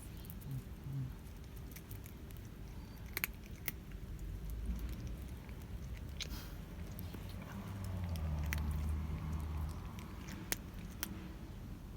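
A cat eating its food, with scattered sharp clicks and crunches of chewing. A low rumble swells about eight seconds in and fades.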